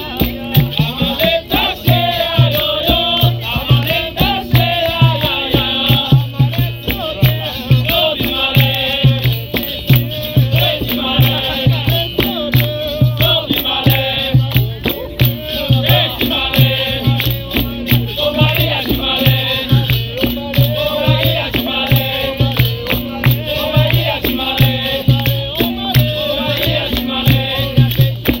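Capoeira roda music: a steady, even percussion beat with low drum strokes and a shaken rattle such as the berimbau's caxixi, with singing over it.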